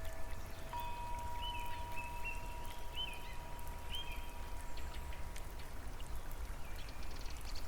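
Steady rain and running-water noise with a low rumble underneath. A single chime tone sets in about a second in and rings on, fading over several seconds, and a few short high chirps come in the first half.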